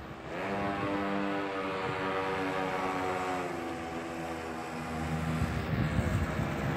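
50cc pocket bike engine running under throttle, one high engine note that sets in just after the start, holds, then drops in pitch a little past the halfway mark as the throttle eases. Low rough thumps on the microphone come in near the end.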